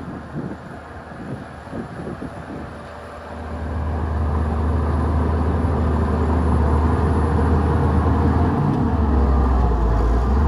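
Shantui DH17-C2 bulldozer's diesel engine working: for about the first three seconds it is quieter with scattered clanks, then it rises to a louder, steady low drone that holds.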